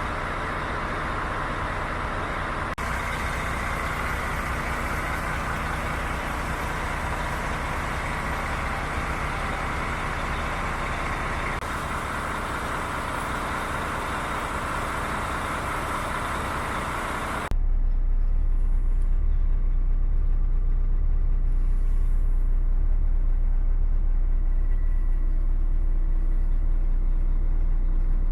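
DAF CF75 lorry's diesel engine running steadily. About two-thirds through there is an abrupt cut from a broad, hissy running sound to a louder, deep low drone.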